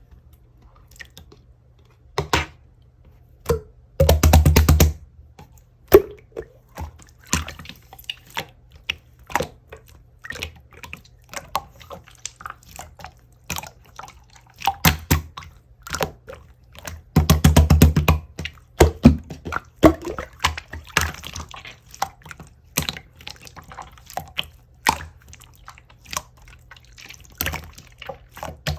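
Clear, tough slime being squeezed and pressed by hand, making a run of wet clicks and pops from trapped air, with two denser, louder stretches of crackling, each about a second long.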